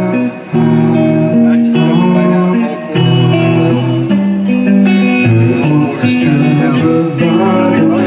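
Live band music with guitar playing chords, no vocals, between verses of a song.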